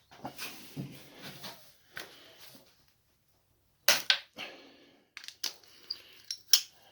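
Hand tools working on a dirt bike's rear brake caliper: metal scraping and rubbing at first, then several sharp metallic clicks and taps.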